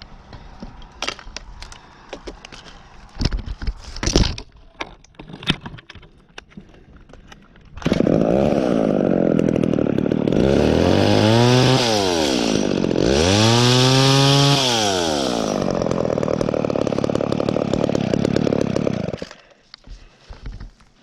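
A few scattered knocks, then a chainsaw engine comes in loud about eight seconds in, revs up and back down twice, runs on steadily and stops shortly before the end.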